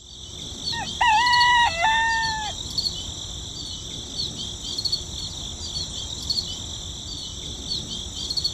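A rooster crows once, a full cock-a-doodle-doo starting just under a second in and ending at about two and a half seconds. Behind it runs a steady high chirping ambience of insects or small birds.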